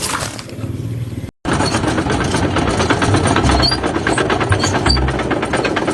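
A small motor running with a fast, even rattle, cutting out briefly and coming back steadily about a second and a half in.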